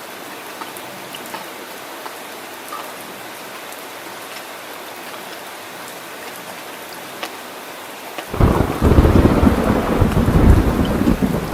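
Heavy rain falling steadily. About eight seconds in, a loud clap of thunder breaks in suddenly and rumbles on.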